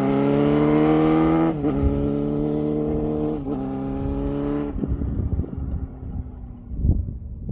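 2007 Yamaha R6 inline-four with a Two Brothers slip-on exhaust pulling hard through the gears, with quick upshifts about one and a half and three and a half seconds in. The exhaust note fades out a little after four and a half seconds as the bike moves off, leaving a low rumble.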